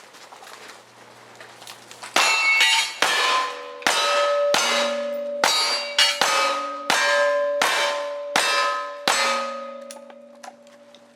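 Rapid gunfire from a cowboy action shooting run: about a dozen shots roughly half a second to a second apart. Each is followed by the metallic clang and ring of a steel target being hit.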